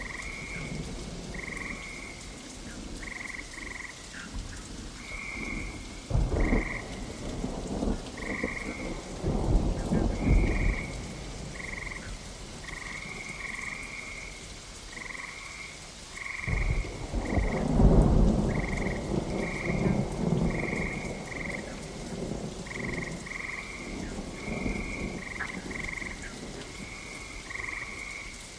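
Steady rain with rolling thunder: two shorter rumbles in the first half and a longer, louder roll starting about halfway through. Over the rain, a creature's short high calls repeat about once or twice a second throughout.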